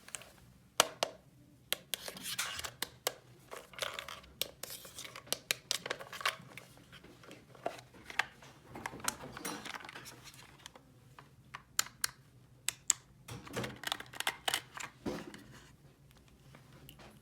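Hands handling small plastic toy pieces and their packaging: many sharp clicks and taps, with short stretches of rustling or tearing in between.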